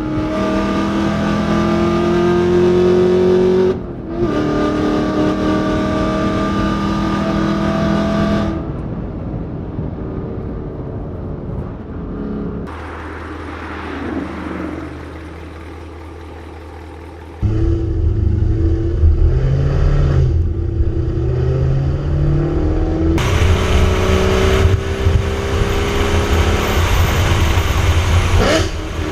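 2018 Chevrolet Camaro ZL1 1LE's supercharged V8 running and revving, the pitch rising and falling. The sound changes abruptly several times and is quieter for a few seconds in the middle.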